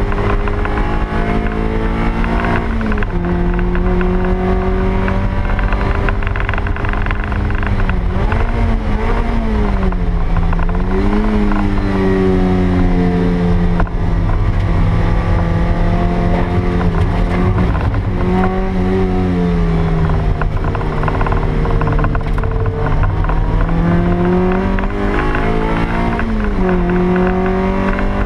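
Toyota MR2 Spyder's stock 1ZZ 1.8-litre four-cylinder engine running hard on track, heard from inside the cabin over steady road and wind noise. The engine note holds steady for long stretches, drops suddenly about three seconds in, and dips and climbs again several times.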